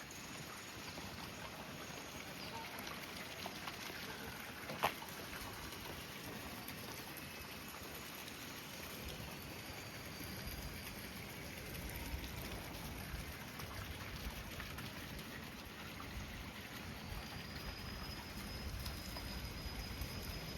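Steady outdoor noise with wind buffeting the microphone in low gusts, and one sharp click about five seconds in.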